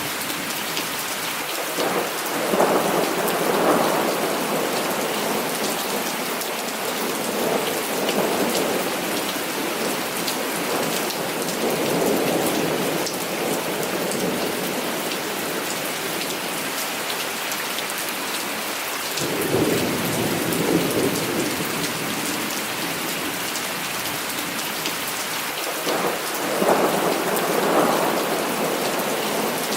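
Heavy rain falling steadily, with rolls of thunder swelling up over it four times: about two seconds in, a longer one around the middle of the first half, another about two-thirds of the way through, and one near the end.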